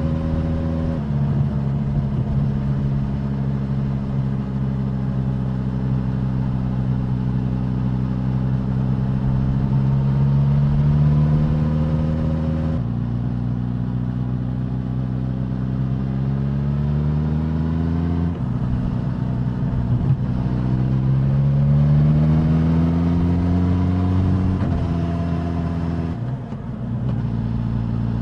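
Suzuki GSX-S1000 motorcycle's inline-four engine and exhaust under way. The note climbs steadily in pitch as the bike pulls, and drops suddenly several times where gears change.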